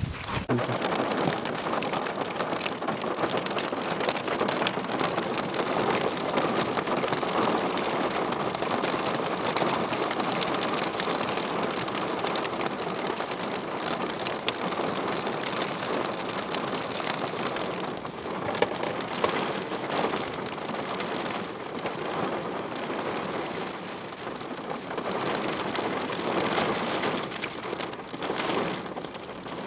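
Steady heavy rain falling during a thunderstorm, with scattered sharp drop hits close by.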